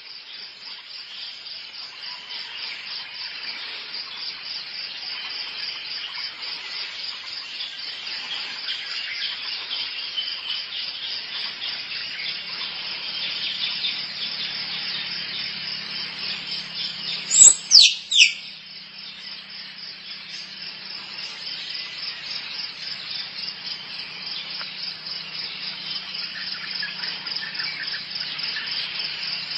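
Recorded animal calls: a continuous rapid, even, high-pitched pulsing trill, with a loud, sharp downward-sweeping double call about halfway through.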